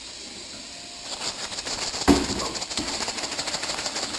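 A chicken piece being shaken in a plastic bag of Shake 'n Bake crumb coating, making a fast crinkling plastic rustle. There is a single sharp knock about halfway through, after which the rustling carries on.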